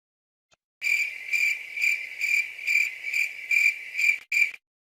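Cricket chirping: a steady high trill that pulses about twice a second, starting about a second in and cutting off suddenly near the end.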